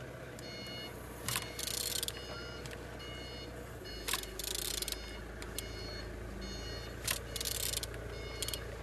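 Engine being turned over by hand, with a regular cycle about every three seconds: a sharp click followed by a short hissing rasp, over a low steady hum. The engine turns freely.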